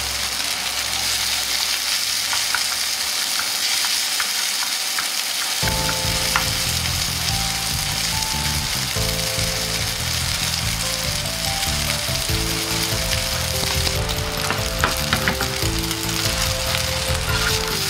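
Yakisoba noodles sizzling in hot oil in a wok, a steady hiss as they fry and brown on the bottom. Background music comes in about six seconds in.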